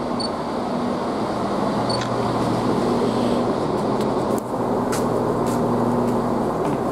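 Chiltern Railways Class 168 diesel multiple unit pulling in alongside the platform: a steady rumble of wheels on rail over the low, even hum of its underfloor diesel engines, with a few light clicks about halfway through.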